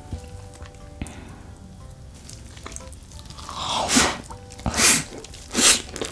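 Close-miked eating: a wet mouthful of spicy noodles wrapped in cheddar cheese is taken about three and a half seconds in, followed by loud, squishy chewing strokes under a second apart.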